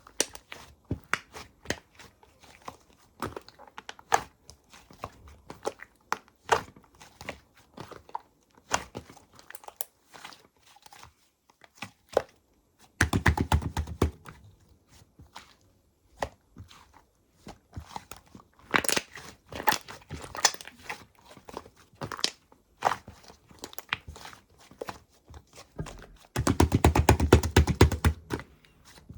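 Fluffy slime being pressed and stretched by hand, giving a scatter of sharp pops and crackles, with two stretches of rapid popping about 13 and 27 seconds in.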